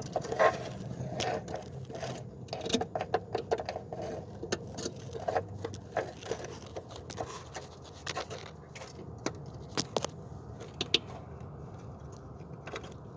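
Hand tools working a metal spring-type hose clamp: irregular metallic clicks, taps and scrapes, busy for the first several seconds, then sparser.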